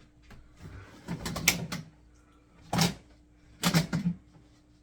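Three short bursts of knocking and rattling, like plastic parts being handled and set in place, over a faint steady hum.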